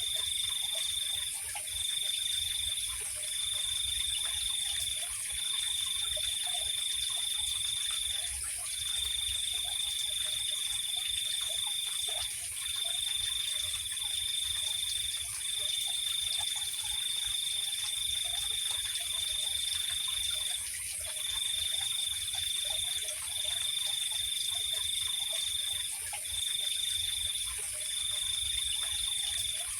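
Night chorus of calling insects. A high, even trill comes in long stretches broken by brief pauses, over a constant higher-pitched drone.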